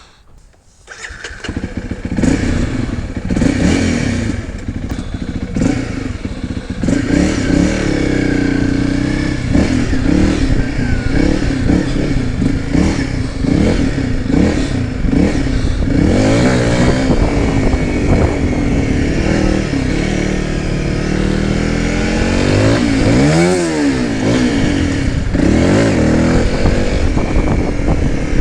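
Honda CRF300L's single-cylinder engine starting up about a second in, then pulling away and accelerating through the gears, its pitch climbing and dropping back at each shift.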